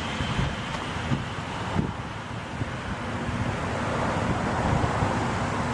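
Wind rumbling on the microphone over a steady low vehicle hum.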